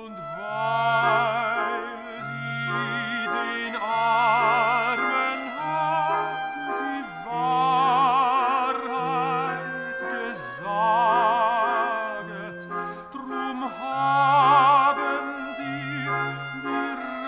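Operatic singing with strong vibrato, in long held phrases over a classical accompaniment with a steady, repeated low note.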